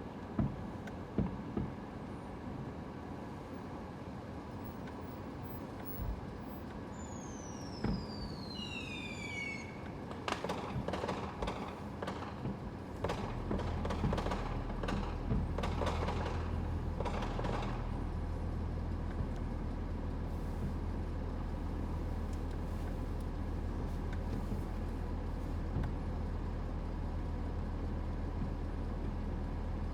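Vehicle engine starting a steady low drone about a third of the way in and running on, after a falling high squeal and a run of knocks and thunks like car doors.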